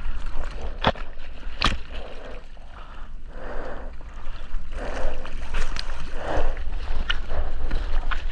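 Seawater sloshing and splashing right at the surfer's GoPro, with sharp splashes at irregular intervals over a steady low rumble of water and wind.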